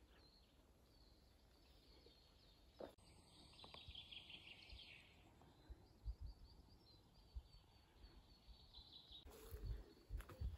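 Faint songbirds chirping: scattered high calls, with a brighter, busier trill about three seconds in that lasts about two seconds. A few low knocks near the end.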